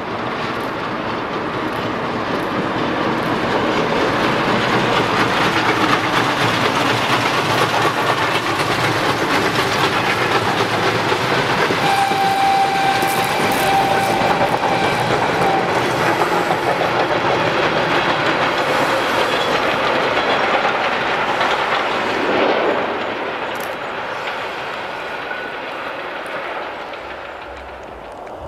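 A train running past with steady rumbling and clatter, swelling as it nears and fading toward the end. About twelve seconds in it sounds one long, steady single-note blast lasting about three and a half seconds.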